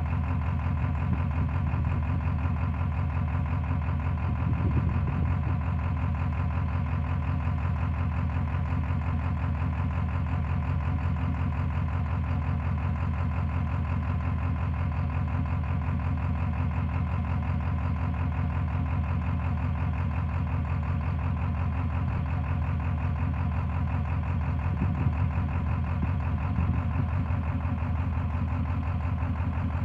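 Ford 7.3 Power Stroke turbo-diesel V8 idling steadily.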